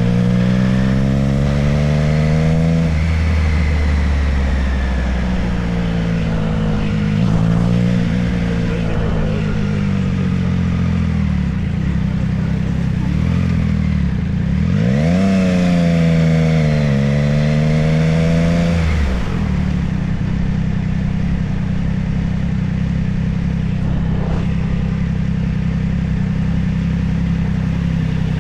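Motorcycle engine running under way. It revs up and the pitch climbs in the first few seconds. About halfway through it revs up again and holds for a few seconds before easing off.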